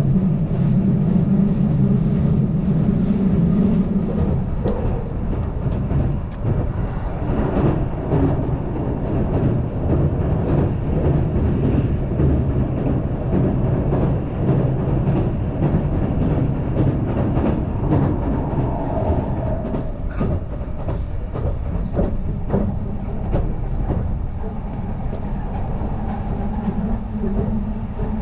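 Keihan Main Line limited express electric train running between stations, heard from inside the car: a steady rumble of wheels on rail with scattered clicks from rail joints. A low hum from the running gear fades about four seconds in and comes back near the end.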